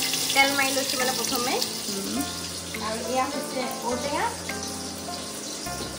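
Food frying in hot oil in an aluminium pressure cooker on a gas stove, a steady sizzle, with a person's voice over it.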